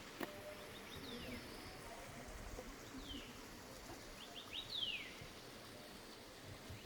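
A bird singing a high whistle that slides down in pitch, each time led by two or three quick short notes. The phrase comes three times, about every two seconds. A single sharp click sounds just after the start.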